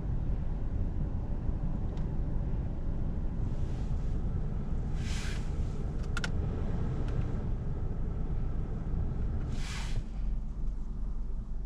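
Volkswagen Golf VI 1.4 TSI driving, giving a steady low engine and road rumble with no clear rise or fall in revs. Two brief whooshes come about five and ten seconds in, with a few light clicks around six seconds.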